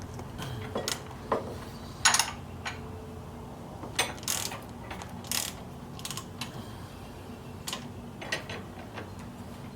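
Ratchet wrench clicking in short, irregular strokes as nuts and bolts on a mini bike's jack shaft and axle are tightened, with small metal clinks between strokes.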